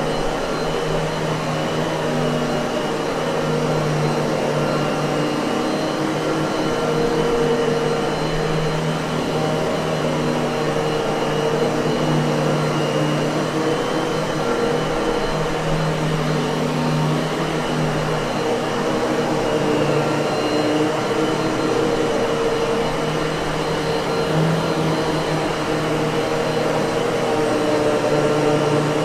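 Miele vacuum cleaner motor running steadily: a continuous hum and rush of air with a faint high whine, its pitch wavering only slightly.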